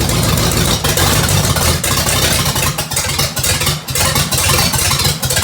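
Oldsmobile 455 big-block V8 running loud and slightly uneven, the level dipping a few times in the middle, until it cuts off suddenly at the end.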